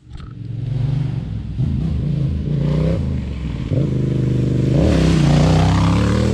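Yamaha Ténéré 700 parallel-twin motorcycle engine under way, its pitch rising and falling with throttle and gear changes, sweeping up sharply twice past the middle, with wind rush building near the end.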